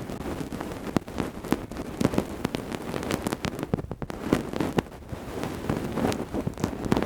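Ear-cleaning tools scratching and rubbing close to the microphone, a dense, irregular run of crackles and clicks.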